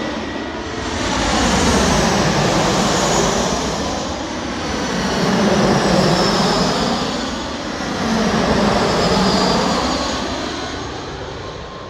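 Jet airliner engines on landing approach, passing close by as a dense rushing noise that swells and eases a few times, with a faint high whine slowly falling in pitch.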